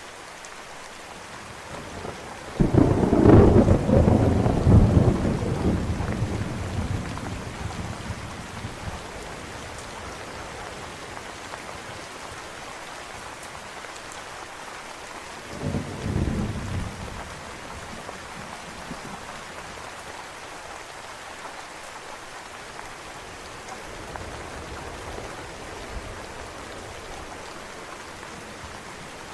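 Steady rain with thunder: a loud rolling clap about two and a half seconds in that dies away over several seconds, and a second, shorter rumble about halfway through.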